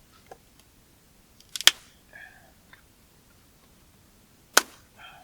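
Two sharp clacks about three seconds apart, the first a quick double, from handling a small wood stove and its fuel, with faint rustling after each.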